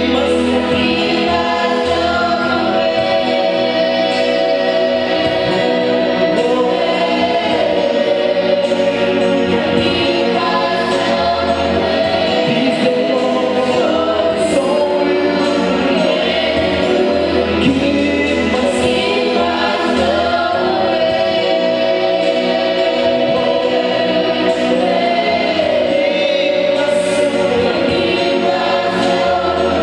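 Gospel choir singing a worship song with instrumental backing.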